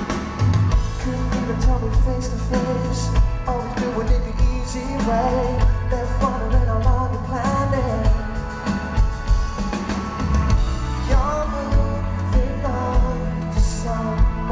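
Live pop-rock band playing a song with lead vocals over a steady drum beat and heavy bass, recorded from the front of a concert crowd.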